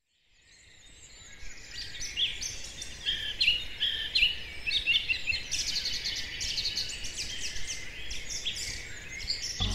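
Birds chirping and singing, many quick calls and trills over a faint low rumble, fading in from silence over the first couple of seconds.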